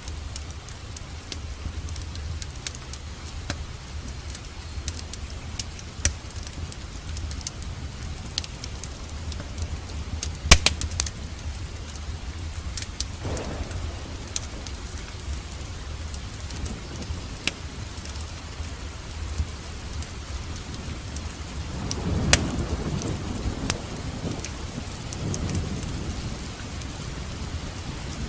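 Steady rain with a wood fire crackling: scattered sharp pops, one loud pop about ten seconds in. Low thunder rumbles swell in about thirteen seconds in and again, longer, a little past twenty seconds.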